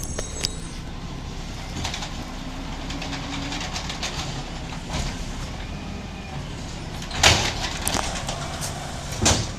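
Garbage truck engine running with a steady low rumble, with two short loud bursts of noise about seven and about nine seconds in.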